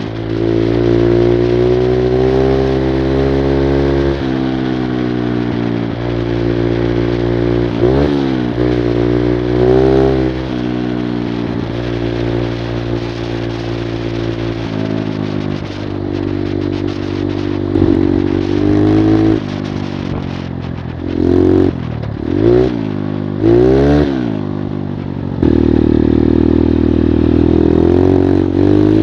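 Engine of an 85cc Skyteam Monkey moped under way, revving up and down, with several quick sharp blips of the throttle near the middle of the ride. The moped's clutch slips badly.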